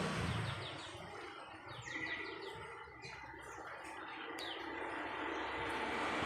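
Murai songbirds chirping in quick runs of short falling notes over a steady background hiss.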